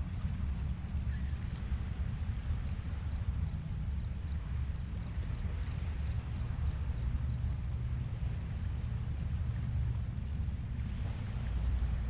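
Gentle surf on a sandy beach at low tide, heard as a steady low rumble that swells near the end. Faint high ticking chirps come about twice a second in the first half, over a thin steady high tone.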